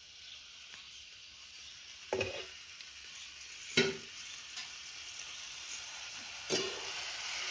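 Boiled flat bean pods frying in hot oil in a steel pan: a steady sizzle that grows louder, with three sharp knocks against the pan about two, four and six and a half seconds in.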